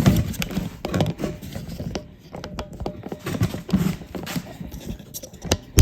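ATV plastic fenders being handled and fitted to the frame: a busy run of irregular clicks, scrapes and light knocks, ending in one loud knock.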